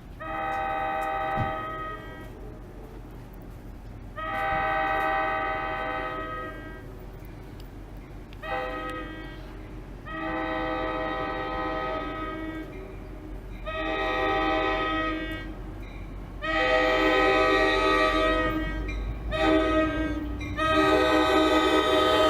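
Multi-chime locomotive air horn sounding the grade-crossing signal twice: long, long, short, long, then the same again. Each blast is a steady chord, and the blasts grow louder as the train approaches, with its rumble rising near the end.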